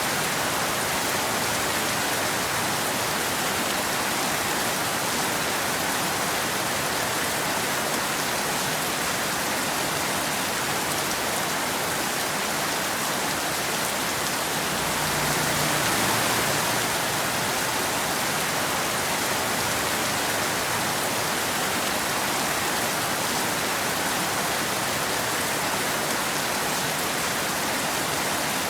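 Steady rain, a dense, even hiss, swelling briefly a little past the middle.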